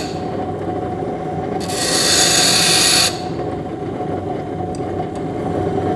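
Grinder motor running steadily while a steel drill bit is pressed against the wheel for about a second and a half, starting about a second and a half in, with a bright hiss of metal being ground. The bit is being ground back to clean metal to remove the purple, overheated steel.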